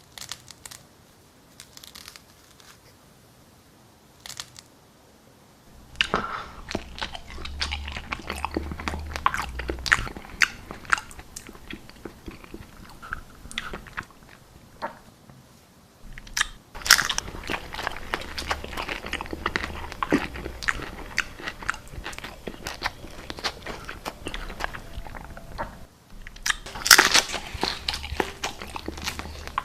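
Close-miked ASMR eating: biting, crunching and chewing of food. A few soft mouth clicks at first, then about six seconds in dense crunchy chewing that breaks off briefly twice.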